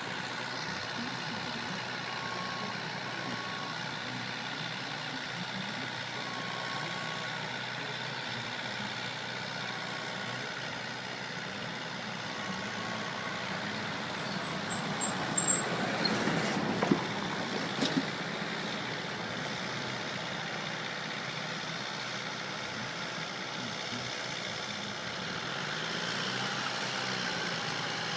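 Kubota tractor engine running steadily, with a few sharp clicks or knocks about halfway through.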